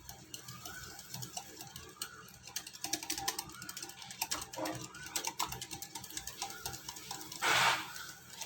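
Egg and sugar being beaten together in a bowl: a fast, uneven run of light clicks and taps as the utensil strikes the bowl. A short louder rushing noise comes near the end.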